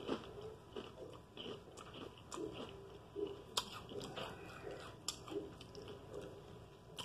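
A person chewing a mouthful of food with lips closed: soft, irregular mouth sounds with a few short, sharp clicks.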